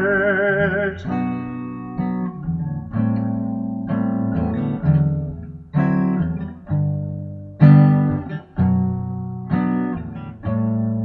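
Guitar chords strummed about once a second, each one ringing and fading, between lines of a song. At the start a man's voice holds the last sung note with vibrato for about a second.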